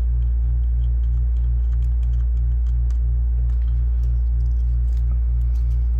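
Air-conditioning unit's steady, loud low hum, with a slight throb a few times a second.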